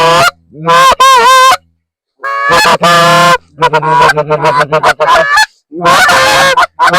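Loud goose honks and clucks in quick series, pausing briefly about two seconds in and then calling densely again.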